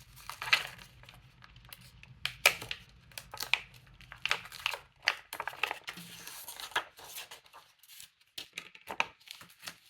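Paper and craft supplies being handled on a tabletop: irregular rustling and crinkling with small sharp taps and clicks, as stamps and paper scraps are picked up, peeled and set down.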